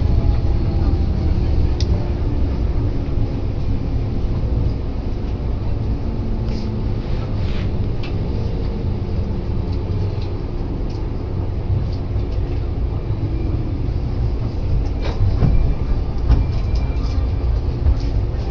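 Electric train heard from inside the carriage, slowing to a stop at a station. A steady low running rumble carries a motor whine that falls in pitch, with a few short clicks from the wheels and rails.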